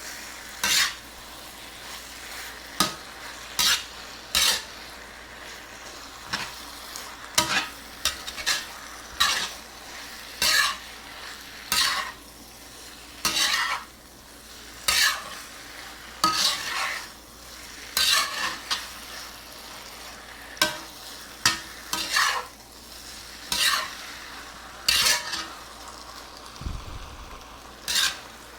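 Chicken, noodles and vegetables in sauce sizzling in a hot pan while a utensil stirs and tosses them, giving irregular sharp scrapes and clinks about once or twice a second over a steady sizzle.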